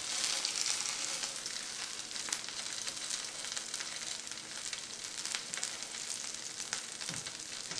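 Flattened boiled taro root patties shallow-frying in oil on a nonstick griddle: a steady sizzling hiss with fine crackles, as the oil bubbles around the patties while they crisp.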